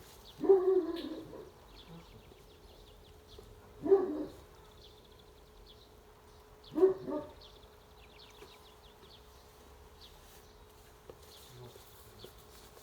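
A dog barking three times, a few seconds apart, with faint bird chirps in the background.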